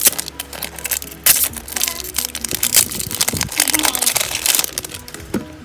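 Foil booster pack wrappers crinkling and rustling in the hands as trading card packs are handled and opened, with many short sharp crackles. Background music plays underneath.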